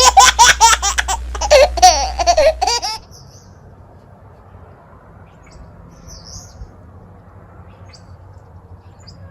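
A high-pitched, voice-like sound, rapidly rising and falling in pitch like laughter or chirping, over a steady low hum for about three seconds, cutting off suddenly; then quiet room tone with a few faint ticks.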